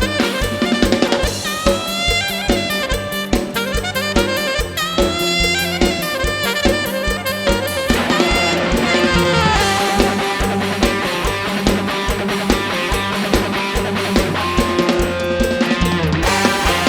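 Live band music with a drum kit keeping a steady beat.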